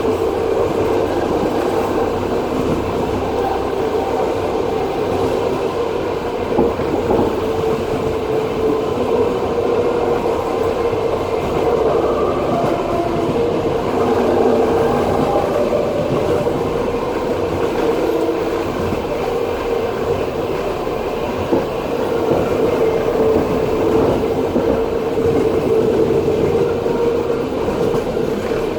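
Passenger train running along the track, heard from inside the carriage: steady rolling noise of the wheels on the rails, with a steady hum running underneath.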